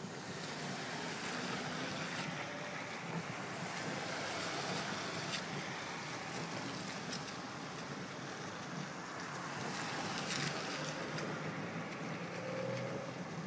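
Wind rushing steadily across the microphone, with a faint low engine hum underneath.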